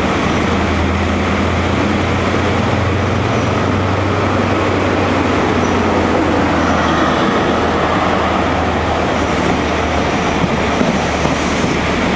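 Class 43 HST power car's diesel engine running steadily as the train moves slowly past, its low hum weakening about halfway through as the power car goes by. The rolling noise of the coaches' wheels on the rails follows, with a faint high squeal near the end.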